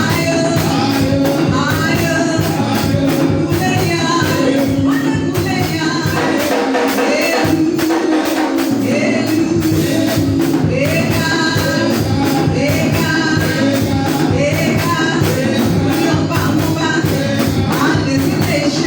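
Live gospel worship music from a church band with bass, drums and tambourine on a steady beat, with singing. The bass drops out for a couple of seconds about halfway through.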